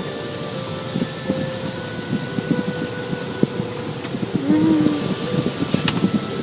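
Automatic car wash machinery working over a car: a dense, steady rattling patter with a constant mechanical hum under it.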